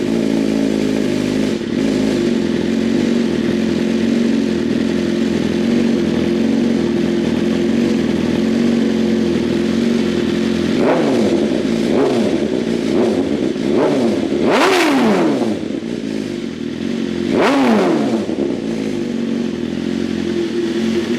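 Superbike engine idling steadily through its exhaust, warm after a cold start moments before, then blipped with several short throttle revs in the second half, the two biggest about two-thirds of the way through, each climbing and falling back to idle.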